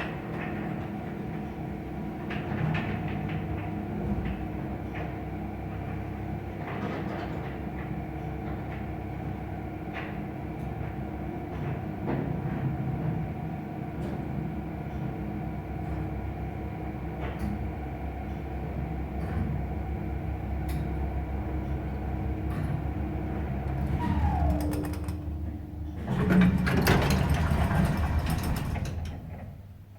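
Soviet Samarkand-built elevator travelling, its AS-62 hoist motor humming steadily under a rattle of the car with occasional light clicks. About 24 s in the motor's whine falls away as the car stops, then the doors rattle open for a few seconds.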